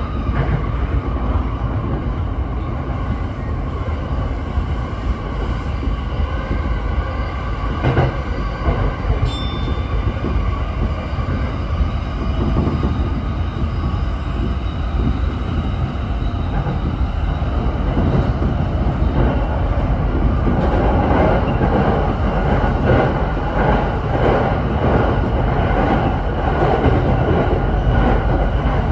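Tokyo Waterfront Area Rapid Transit 70-000 series electric train running at speed, heard from inside the driver's cab: a steady rolling rumble of wheels on rail with a faint steady whine. It grows slightly louder and more rhythmic in the last third.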